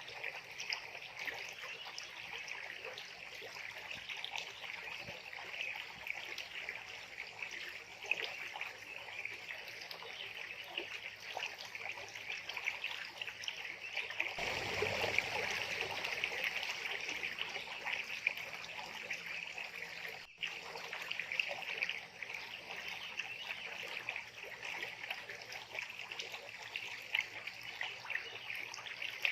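Steady trickling and flowing water, like a small stream, with a louder, fuller rush for a few seconds about halfway through and a brief dropout about two-thirds of the way in.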